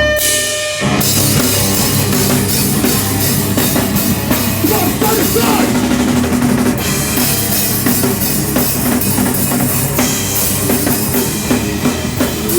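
Live heavy rock band playing loudly, the full band with drum kit and electric guitar coming in about a second in after a short guitar lead-in.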